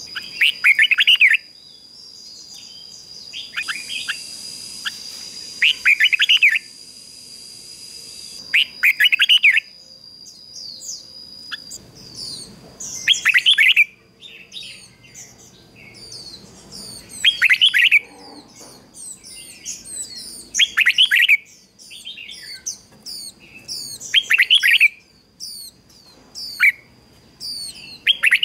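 Red-whiskered bulbul singing: loud short whistled phrases repeated every few seconds, with quicker, higher chirps between them, more of them in the second half. A steady high-pitched tone runs underneath and stops about twelve seconds in.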